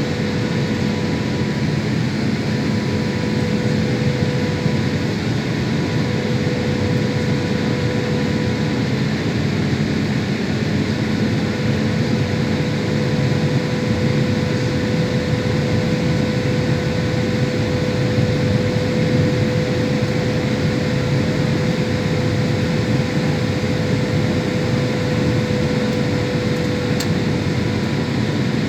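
Steady cabin noise of a Boeing jet airliner in flight: the even rush of air with a constant engine hum and a steady tone on top.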